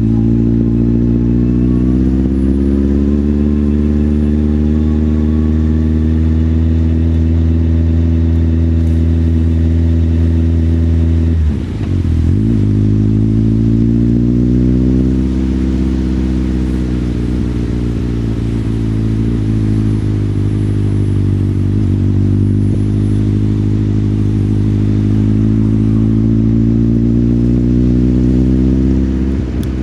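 Motorcycle engine running under way, rising in pitch as it accelerates and then holding steady. There is a sharp break and drop about twelve seconds in, like a gear change, with smaller dips later.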